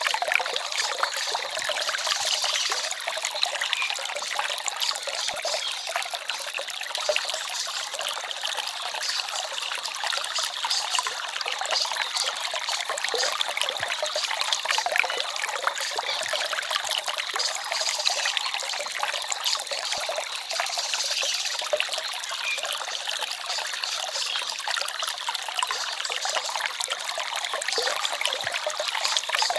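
A small forest stream trickling and babbling over stones, a steady splashy rush of water with little deep rumble.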